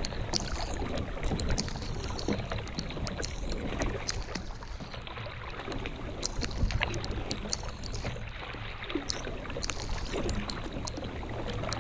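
Water lapping and splashing against a kayak hull, with scattered small knocks and clicks over a steady low rumble.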